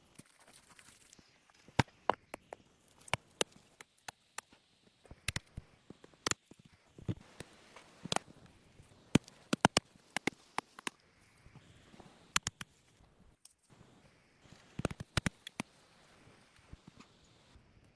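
Dry sticks and branches snapping and knocking as they are handled, a string of irregular sharp cracks with short gaps between.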